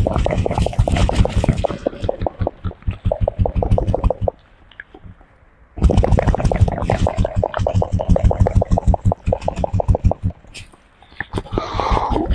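Monkey grooming a person close to the microphone: two runs of rapid clicking and smacking, each a few seconds long, with a short pause between and a brief different sound near the end.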